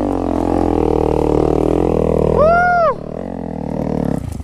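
Dirt bike engine revving up and down as the throttle is worked. About two and a half seconds in there is a short whine that rises and then falls away.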